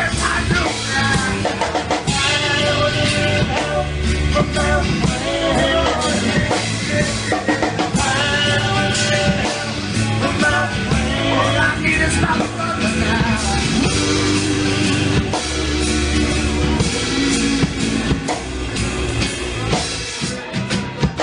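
Rock music with drum kit, bass and guitar, with a singing voice through the first half or so; from a little past the middle the band plays on without the voice.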